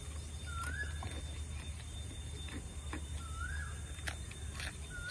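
A bird calling: a short whistled note that rises then dips, repeated three times about every two and a half seconds, over a steady low rumble.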